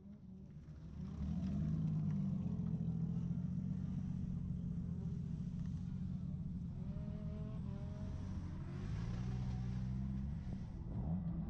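Vehicle engine running at a steady speed: a low, even drone that holds its pitch, fading in at the start.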